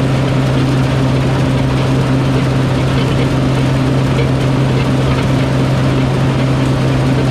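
Large farm machine's engine running steadily at constant speed: an unchanging low hum with a noisy mechanical wash over it.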